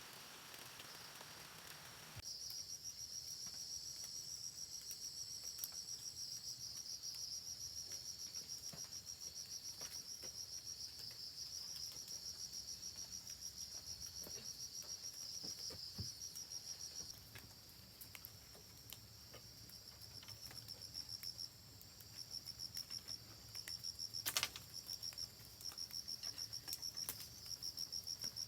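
Cricket chirping in a fast, even, pulsing high-pitched trill. It starts a couple of seconds in, fades and breaks up for a few seconds in the middle, then picks up again. A single sharp click comes near the end.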